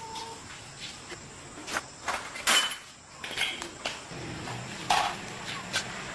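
A few irregular knocks and clacks, like tools or parts being handled and set down, with the loudest about two and a half seconds in and again near the five-second mark.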